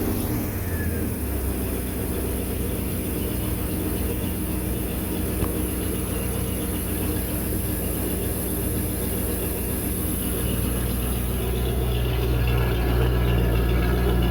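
Inboard boat engine on a Volvo Penta 280 sterndrive running steadily at a low speed, growing somewhat louder near the end. It runs smoothly after a rebuilt carburetor and new water-pump impeller, and the owner says it sounds good.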